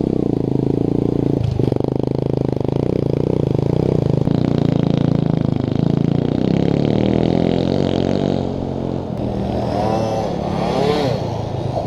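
Small off-road motorbike engine running, its revs shifting steadily, then rising and falling a few times near the end.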